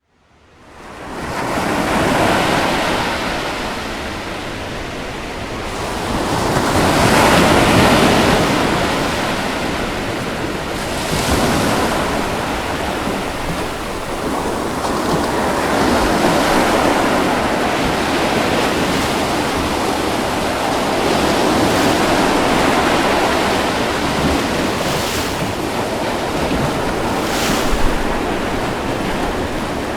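Ocean waves washing onto a beach, a continuous surging hiss that swells and ebbs every few seconds, with the odd sharper splash as a wave breaks. Wind blows across the microphone.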